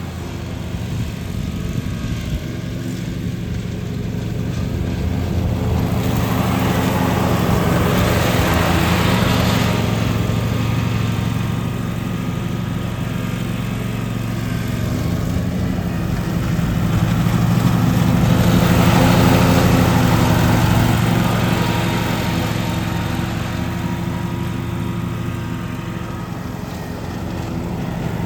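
Lawn mower engine running steadily under load, swelling louder twice as it comes closer and falling back between.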